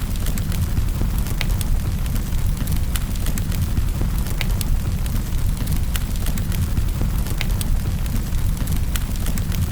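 Wood fire in a fireplace crackling: a steady low rumble of the flames with irregular sharp pops and crackles, a few each second.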